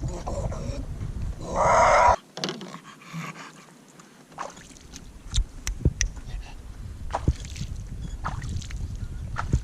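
A bulldog splashing and snapping at lake water beside a kayak: a loud splash about a second and a half in, then scattered sharp knocks and clicks.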